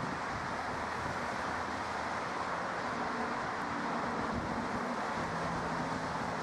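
Steady rushing noise with a faint low hum of a distant engine.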